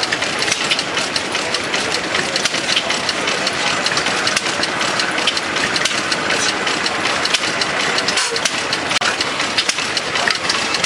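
1888 Fétu-Defize twin-cylinder slide-valve engine running steadily, with a fast, even clatter from its moving parts.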